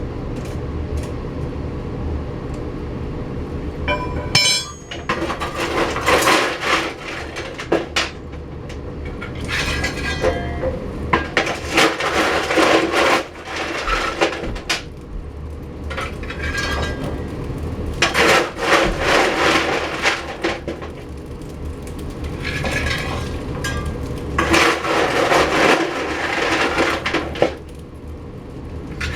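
Coal being shovelled into the firebox of a wood-burning furnace: the metal shovel scrapes and lumps of coal clatter, in about seven spells of one to three seconds with clinks between them.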